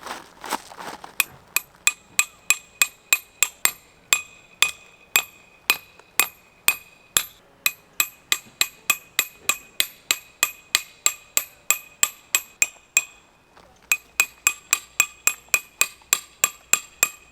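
A hammer driving metal tent pegs into the ground: a steady run of sharp strikes, about two to three a second, each with a bright metallic ring. The strikes stop briefly near the end, then start again.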